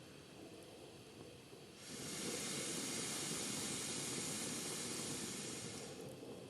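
Wood fire burning in a small fire stand, with a steady hiss that swells loudly about two seconds in and eases off near the end.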